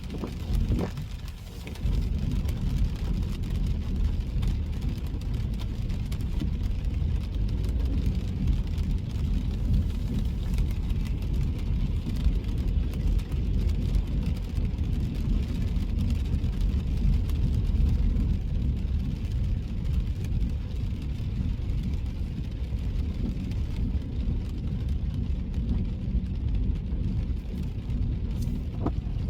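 Car driving on a wet road in the rain: a steady low road rumble with a lighter hiss of tyres on the wet surface, dipping briefly about a second in.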